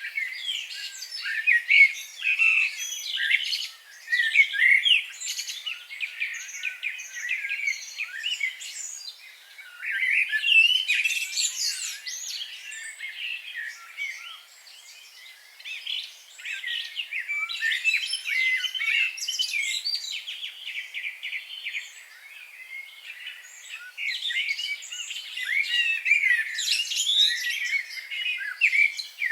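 Several wild birds singing and chirping at once, a dense overlap of short high chirps and quick trills. The chorus thins twice, briefly a few seconds in and for a couple of seconds near the middle, before building again.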